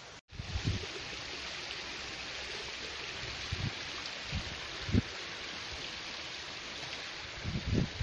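Steady rush of flowing water from a stream, with scattered low wind thumps on the microphone that come more often near the end.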